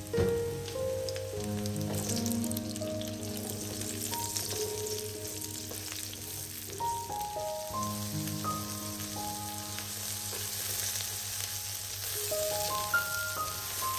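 White button mushrooms frying in hot olive oil, with a steady sizzle that jumps up sharply right at the start as they hit the pan, while they are turned with tongs. Soft background music plays under it.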